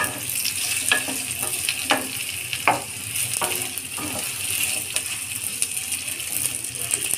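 Diced potatoes sizzling as they fry in mustard oil in a coated kadhai, with a steady high hiss. They are stirred with a wooden spatula that scrapes and knocks against the pan now and then.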